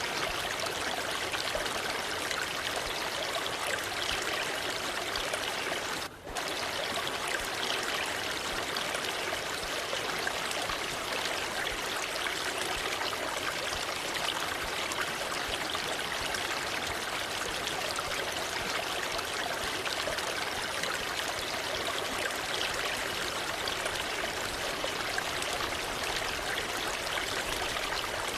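Waterfall, water rushing in a steady, dense hiss, with a brief dip about six seconds in.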